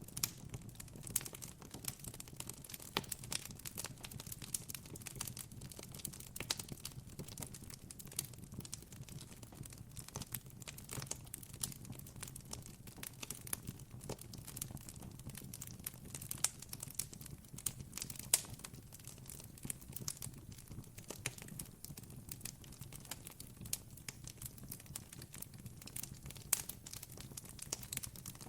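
Campfire crackling, with many small irregular pops and snaps over a faint steady low rumble.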